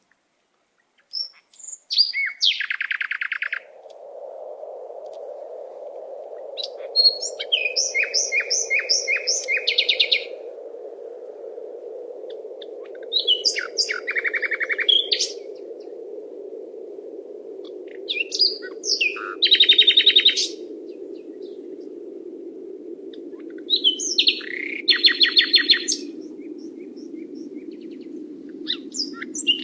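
Songbird singing in short phrases of rapid trilled notes, repeated about every five seconds, over a steady low rushing background that comes in a few seconds in.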